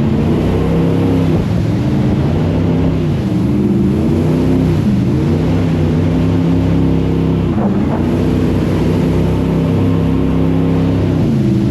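Jet boat engine running hard, its pitch dipping and climbing again several times as the throttle is eased and reopened.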